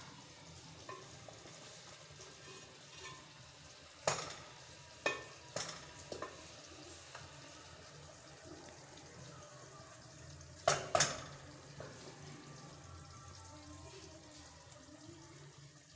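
Chicken karahi faintly sizzling in a pot, with a few sharp utensil clicks: several about four to six seconds in and a pair near eleven seconds.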